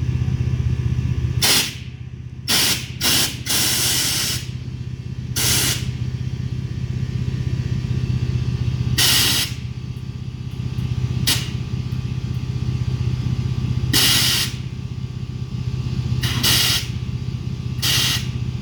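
Mini-truck's air-ride suspension letting out short hisses of air, about a dozen irregular bursts from under a second to about a second long, over the steady hum of the running engine.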